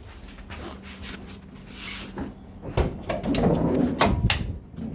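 Handling noises on a classic car: a few sharp clicks and knocks, with a louder scraping, creaking stretch about three seconds in.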